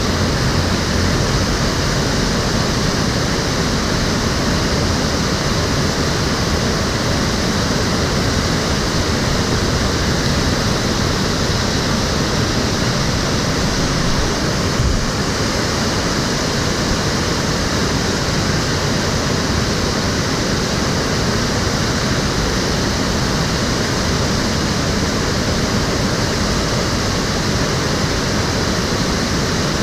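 Stream water flowing steadily, a continuous rushing.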